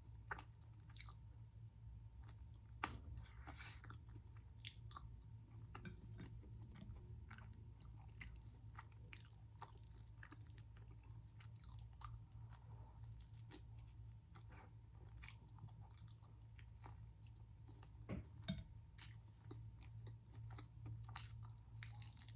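Quiet, close-up chewing and crunching of a batter-fried Korean mozzarella corn dog coated in mashed potato: irregular small crisp crackles with a few louder crunches, over a faint steady low hum.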